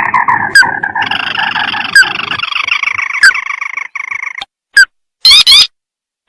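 Crake calls from a bird-lure recording: a dense, fast chattering trill for about four and a half seconds, then a few short, sharp call notes near the end.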